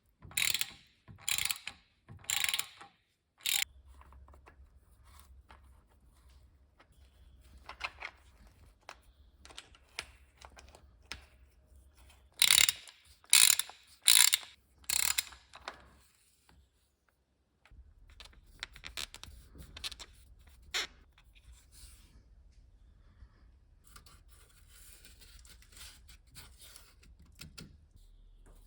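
Hand ratchet wrench worked in short strokes: four quick bursts of ratcheting clicks near the start and four more about halfway through, with fainter clicks in between.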